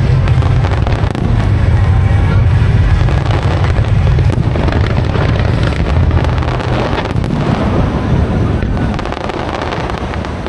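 Aerial fireworks bursting and crackling in quick succession over a heavy low rumble, which eases off about eight seconds in.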